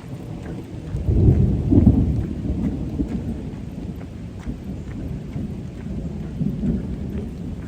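Thunder rumbling in a rainstorm: a low rumble swells about a second in, is loudest for a second or so, then trails off into a lower rolling rumble, with rain and scattered drop ticks throughout.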